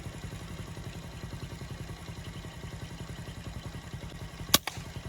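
A small engine running at a steady idle with a low, rapid pulse, and one sharp crack about four and a half seconds in.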